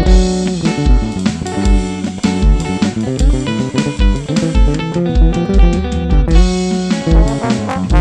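Live band playing an instrumental passage: guitar and bass over a drum kit with a steady kick-drum beat about twice a second.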